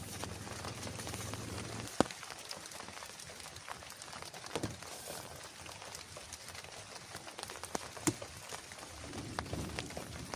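Steady rain falling, with scattered sharp drop impacts, the loudest about two seconds in and again near the end.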